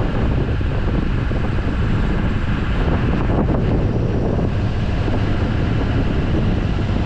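A vehicle driving on the road, with a steady low rumble and wind buffeting the microphone.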